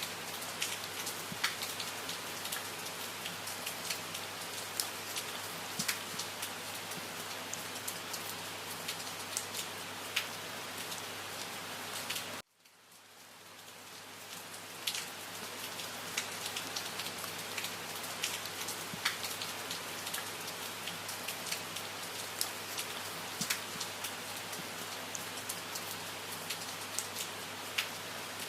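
Steady rain falling, with many individual drops striking sharply through the even hiss. About twelve seconds in, the sound cuts off abruptly and then fades back up over a couple of seconds: an edit or loop point in the rain recording.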